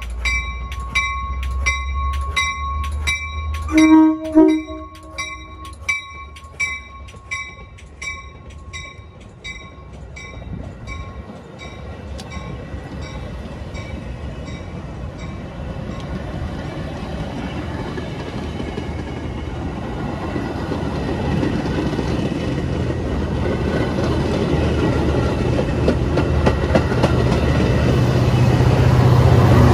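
A bell rings about twice a second and fades out after about ten seconds. A Metra commuter train gives a short horn toot about four seconds in. The train's rumble then grows steadily louder as it comes closer.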